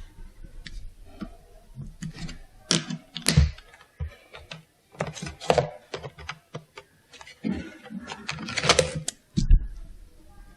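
Hand craftwork on paper at a desk: irregular short scratchy strokes, like pens colouring, with light clicks and taps, a few per second.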